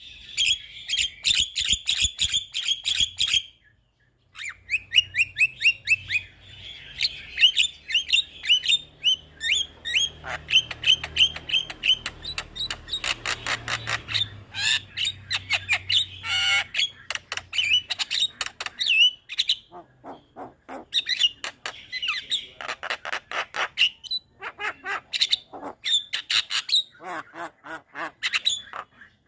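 Javan myna singing: fast runs of short repeated chattering and whistled notes mixed with harsh squawks, in bursts broken by brief pauses.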